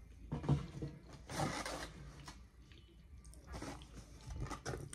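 Chewing a mouthful of mac and cheese, heard as several short, soft, noisy bursts, with rustling from the foam takeout container being handled near the end.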